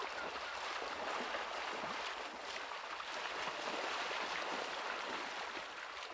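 Steady rush of moving water, an even wash with faint bubbling.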